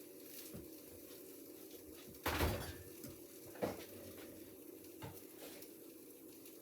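Refrigerator door being opened and shut: a thud about two seconds in, then lighter knocks about a second later and again near the end, over a faint steady hum.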